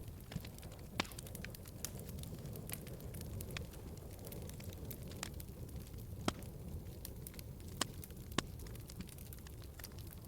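Wood fire burning in a fireplace: a steady low rumble of flames with scattered sharp crackles and pops, a few louder pops standing out.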